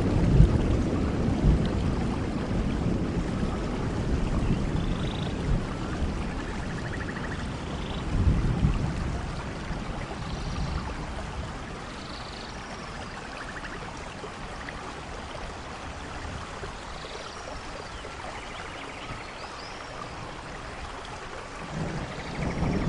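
Steady rainfall hiss in a rainforest, with low rolls of thunder at the start, again about eight seconds in, and building near the end. Faint short high chirps are scattered through it.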